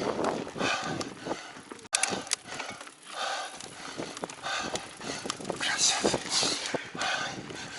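Giant Trance Advanced Pro mountain bike riding over a dirt trail: tyre and drivetrain noise that swells and fades unevenly, with sharp rattling clicks from the bike, one louder just after two seconds in.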